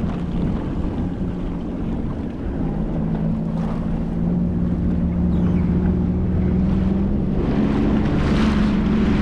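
Sea-Doo jetski engine running at low speed, its hum stepping up slightly about three seconds in and getting a little louder toward the end as the ski gets under way. Wind rumbles on the microphone and water hisses along the hull.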